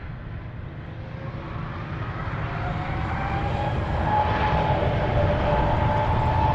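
Jet airliner's engines growing steadily louder as it comes closer, a whine rising slightly in pitch over a low rumble.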